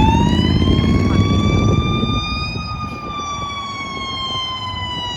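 Fire engine's siren winding up to a high peak and then slowly winding down, over the rumble of the passing truck, which fades after about two seconds.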